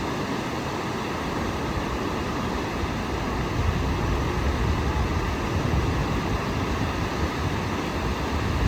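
Sea surf washing on the shore, a steady rushing noise, with wind buffeting the microphone in low rumbling gusts that grow stronger from about midway.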